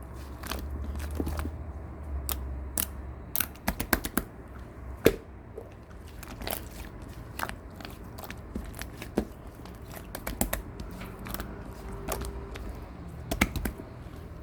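Slime being squeezed and pressed by hand, giving irregular sharp clicking pops, a few of them louder snaps.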